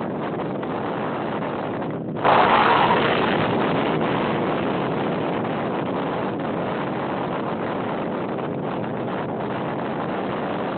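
Storm-force wind buffeting a phone microphone in a steady roar of noise. About two seconds in, a sudden stronger gust hits, then gradually eases back.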